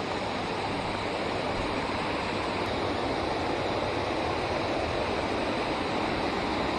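Water spilling over a river dam: a steady, even rush.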